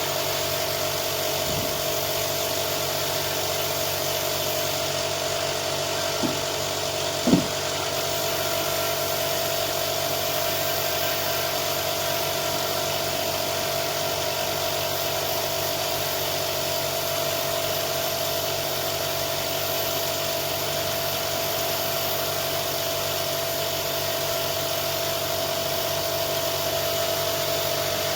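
Electric power tool running steadily with an even hum, with a couple of short knocks a few seconds in.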